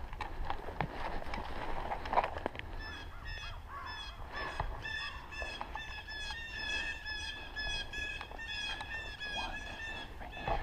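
A flock of geese honking, with many short calls overlapping and following each other several times a second from about three seconds in. A few sharp snaps or clicks come before the honking starts.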